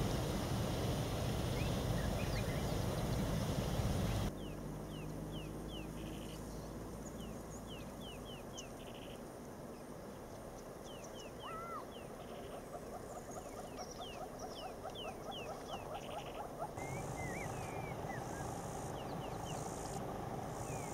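Wild birds calling in open bush: many short downward-sweeping chirps in quick runs, and a fast ticking trill that builds up partway through. A low rumble fills the first four seconds and cuts off abruptly.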